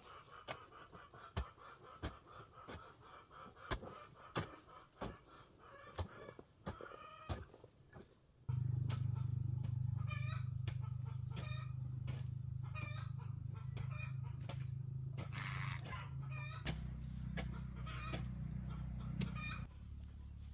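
Chickens clucking in short repeated calls. About a third of the way in, a loud steady low hum starts abruptly and runs under the calls.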